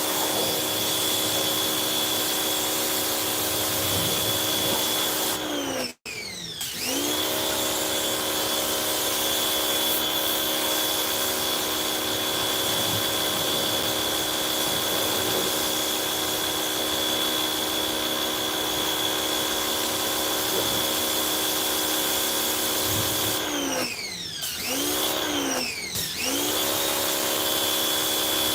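Electric pressure washer motor running steadily with a high whine. About six seconds in it winds down to a stop and spins straight back up, and near the end it winds down and restarts twice more in quick succession.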